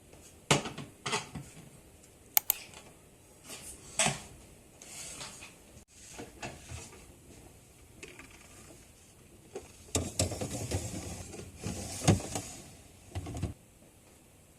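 Household items being handled while a refrigerator is organized: a string of sharp clicks and knocks as things are picked up and set down, with a stretch of rustling and clatter about ten seconds in.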